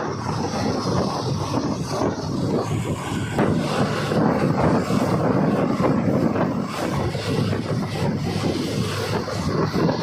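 Passenger train carriage in motion: a steady rumble and rattle of wheels on track, with many small knocks.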